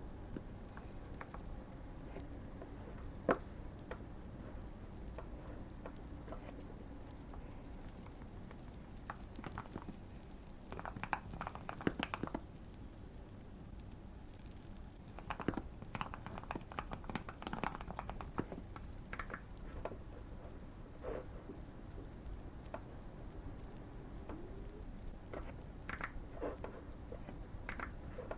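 Typing on a modded Keychron Q1 mechanical keyboard, in bursts of rapid keystrokes with pauses between, over a faint steady fireplace crackle.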